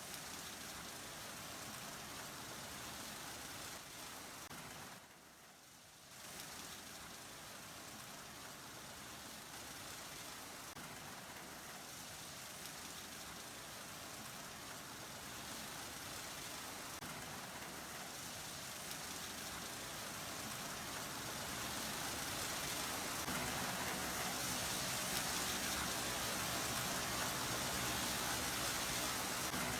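Car wash tunnel equipment: a steady hiss of water spraying over the car, with a short quieter gap about five seconds in. It grows louder over the last third, where a steady machine hum joins in.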